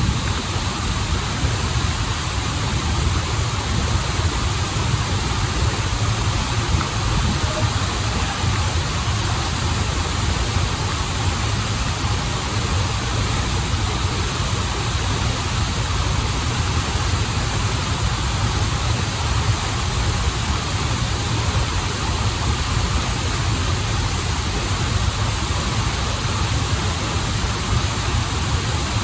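Waterfall and stream water rushing, a steady, unchanging noise with a strong low rumble under a broad hiss.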